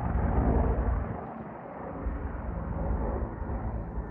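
Search-and-rescue helicopter running with a steady low rumble, mixed with wind buffeting the microphone. The rumble dips about a second in and swells again.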